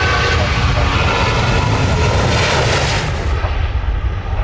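Jet airliner's engines heard close by: a loud, steady rushing noise with a heavy low rumble underneath.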